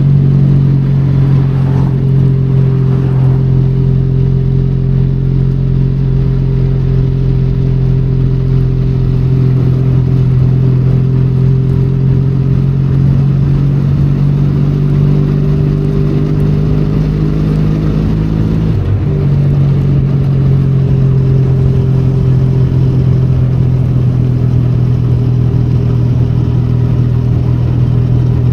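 Benelli Leoncino 500's parallel-twin engine running at a steady cruise, with a brief dip in the engine note about two-thirds of the way through, over a steady hiss of rain and wind.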